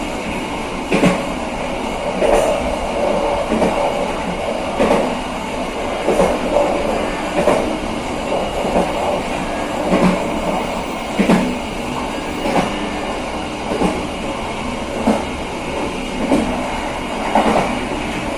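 Passenger train running along the track, its wheels giving a steady rumble with a clickety-clack over the rail joints about once a second.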